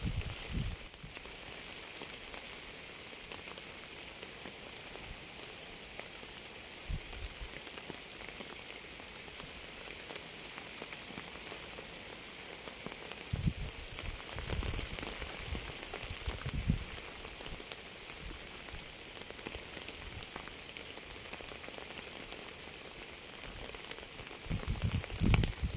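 Steady rain falling on a surface, an even hiss. A few brief low thuds come in around the middle, and a low rumbling swells near the end.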